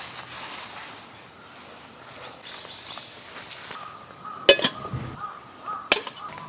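Two sharp knocks about a second and a half apart in the second half, over a steady outdoor hiss, with a faint thin high tone underneath.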